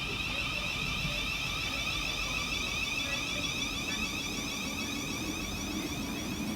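Thameslink Class 700 electric multiple unit at the platform, giving a steady high-pitched electrical whine from its traction equipment, with a lower hum building near the end.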